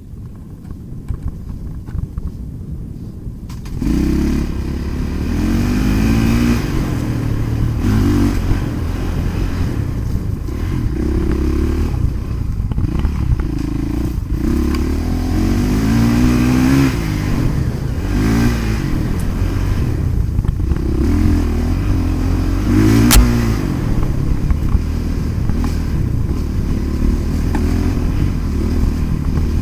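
Motocross dirt bike engines revving, their pitch climbing and dropping again and again, loud from about four seconds in. One sharp knock sounds a little past two-thirds of the way through.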